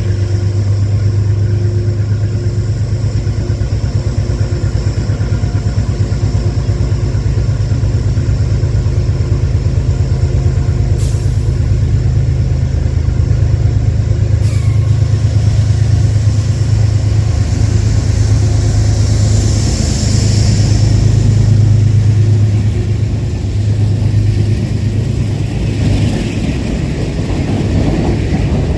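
Metro-North commuter train at a station platform, running with a loud, steady low hum. A high hiss swells up about two-thirds of the way through.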